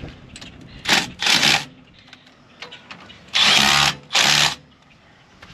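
A power tool run in four short bursts, in two pairs about two seconds apart, each burst about half a second long.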